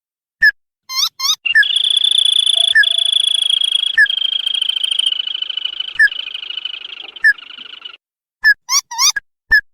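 Crake (tikusan) call from a lure recording: a few short sharp whistled notes, then a long rapid trill lasting about six seconds that fades away, then more short notes near the end.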